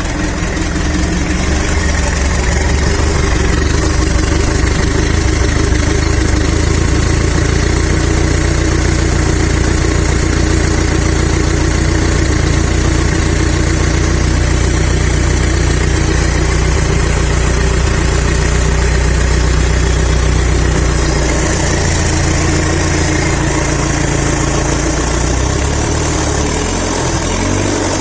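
Mitsubishi 4D55-T 2.3-litre four-cylinder turbodiesel idling steadily on an engine test stand, cold and freshly started. About three-quarters of the way in its note settles a little lower and quieter.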